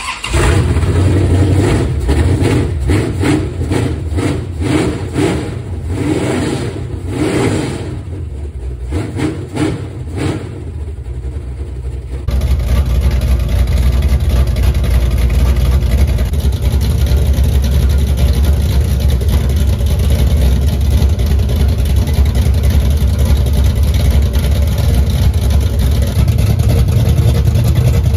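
Rebuilt 440 Chrysler big-block V8 running loud just after its first start in the car, revved in a string of quick throttle blips for the first dozen seconds. After that it settles into a steady, heavy low rumble.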